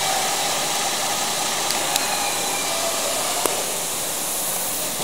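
Holden Commodore 3.6-litre V6 engine idling steadily, heard close over the engine bay as an even, hissing running sound. Faint ticks come twice in the middle.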